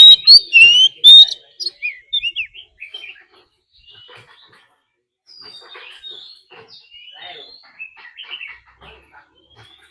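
Oriental magpie-robin singing: loud, clear whistled phrases in the first second or so, then quieter varied whistles and chirps.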